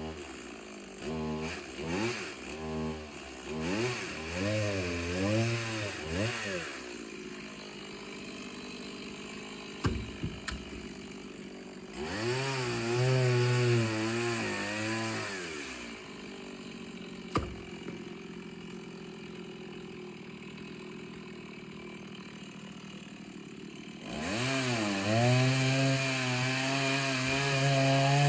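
Two-stroke chainsaw blipping its throttle several times, then dropping to a steady idle between two longer runs at high revs, each held for a few seconds. Two sharp knocks sound while it idles.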